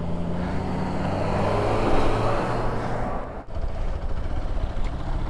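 A vehicle engine running steadily. A swell of rushing noise builds about a second in and fades by about three seconds.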